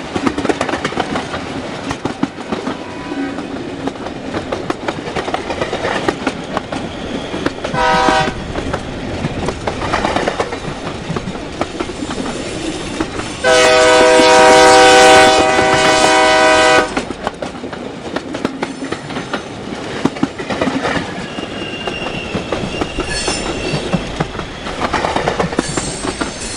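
Old steam train running, its wheels clattering steadily over the rails. A short whistle blast comes about eight seconds in, and a loud whistle blast lasting about three seconds comes around the middle. A thin high squeal is heard later.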